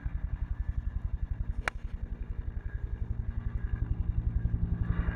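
A small engine running with a steady low chug, likely a gas golf cart. About a second and a half in, a single sharp click of a 9-iron striking a golf ball.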